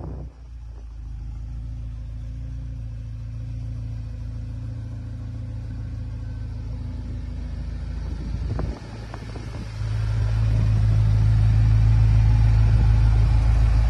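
BMW X6M's twin-turbo V8 idling steadily after a rev. There are a couple of light clicks about eight and a half seconds in, and the idle grows louder from about ten seconds in.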